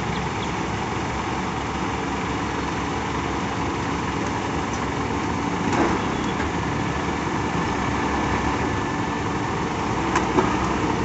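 A vehicle engine running steadily, with a short knock about halfway through and two sharp clicks near the end.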